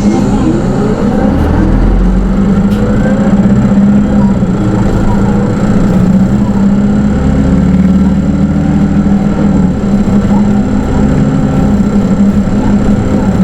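Hino Rainbow II city bus (SDG-KR290J1, automatic) heard from inside the cabin while under way: its diesel engine note rises in pitch at the start as the bus pulls away, then holds a steady drone with road and body noise.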